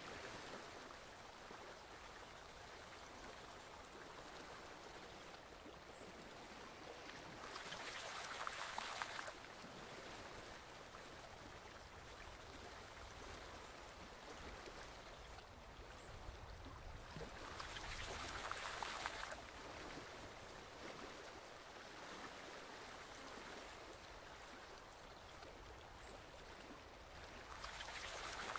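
Stream water flowing steadily, surging louder three times about ten seconds apart.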